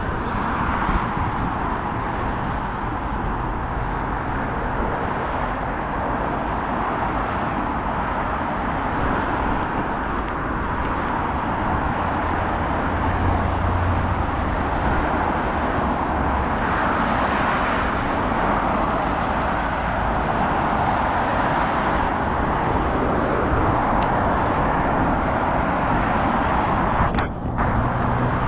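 Continuous road traffic noise, a steady hiss of vehicles with no single pass standing out, dipping briefly near the end.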